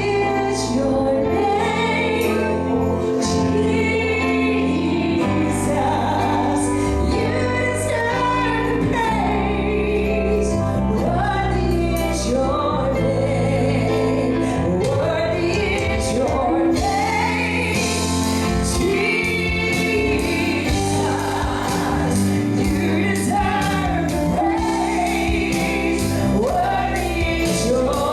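Gospel song: voices singing over a band with a steady bass and drums keeping time.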